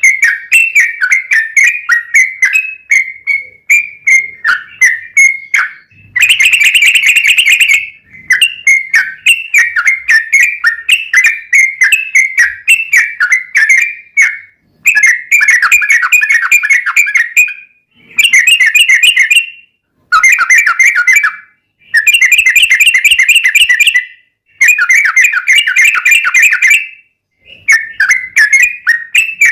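Yellow-vented bulbul (trucukan) singing: runs of quick bubbly chirps alternating with long rapid rattling trills (the 'ropel' song), each burst lasting one to two seconds and separated by brief pauses.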